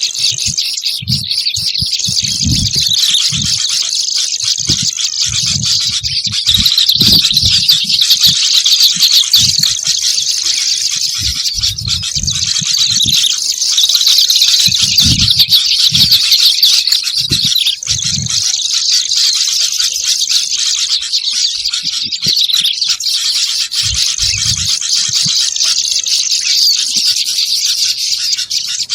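Lure recording of kerabasi (white-browed and black-browed) birds: busy, high-pitched chattering calls in phrases that repeat every few seconds, with a thin high note running through each phrase. Scattered low thuds sound underneath.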